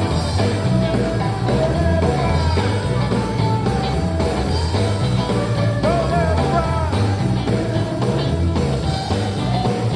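Sacred steel gospel band playing live: an electric steel guitar sliding between notes over a steady bass and drum groove.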